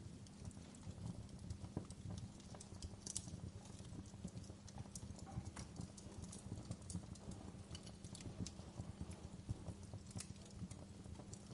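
Wood fire burning low in a fireplace, crackling with frequent irregular small pops and snaps over a low steady rumble.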